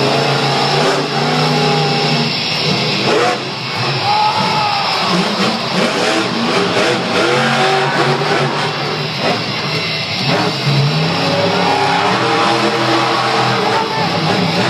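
Monster truck's supercharged V8 engine revving hard and running at high throttle, its pitch rising and falling repeatedly.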